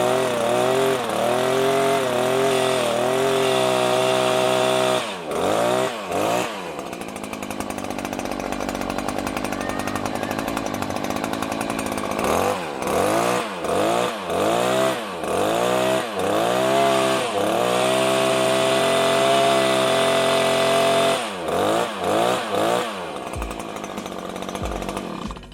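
Stihl HS86R hedge trimmer's two-stroke engine running after a rebuild, revved up and down again and again, held at high revs for a few seconds at a time, running lower and steadier for a while in the middle, then dying away at the end.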